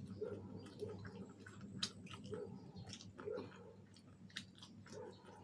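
Close-miked chewing of fried chicken wings: irregular wet mouth clicks, smacks and small crunches.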